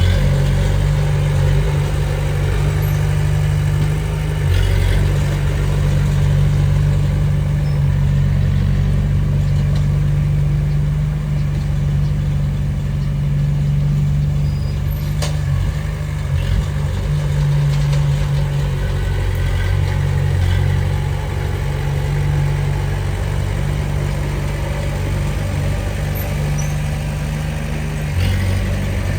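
Diesel engine of heavy earthmoving machinery running steadily at low speed. Its note shifts slightly about four seconds in and again near the end.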